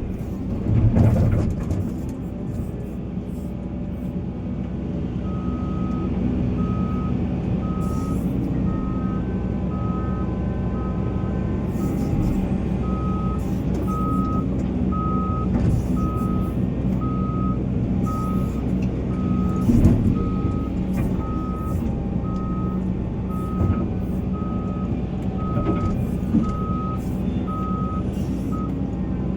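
Heavy machinery's diesel engine running steadily at a mine loading face, with a vehicle's reversing alarm beeping about once a second from about five seconds in until near the end. There are a couple of louder knocks, about a second in and around twenty seconds.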